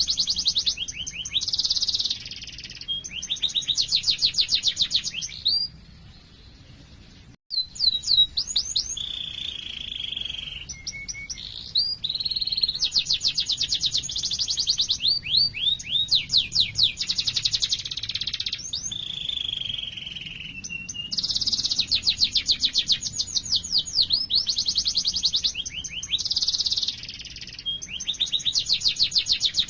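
Domestic canary singing long, rapid rolling trills of quickly repeated high notes, broken by a few lower held buzzy notes. The song stops briefly about six seconds in and picks up again about a second and a half later.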